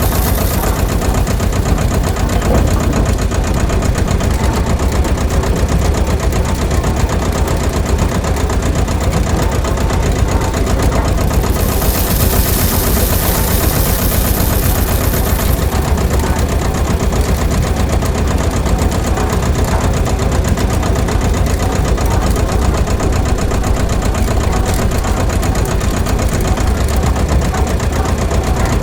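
Motor of a homemade mini tractor rice mill machine running steadily with a fast, even chatter. A brighter hiss rises for a few seconds near the middle.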